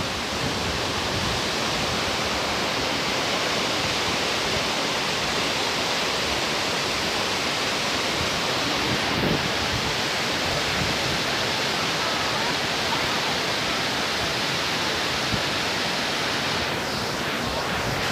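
Cola de Caballo waterfall, water falling with a steady rushing noise.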